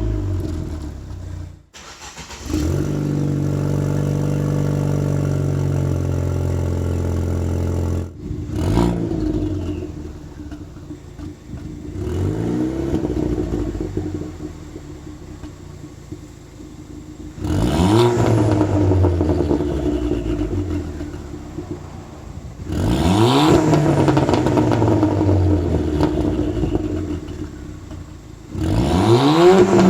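Ford Fiesta ST's turbocharged four-cylinder engine heard through a Milltek cat-back exhaust. Revs fall away, then after a brief break it holds a steady idle for about five seconds. After another short break it free-revs in about five blips, each rising sharply and falling back.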